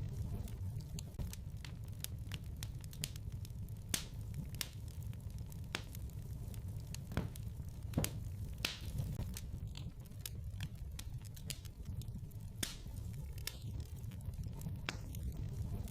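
Wood fire burning in a fireplace: a steady low rumble with irregular sharp crackles and pops, a couple of them louder.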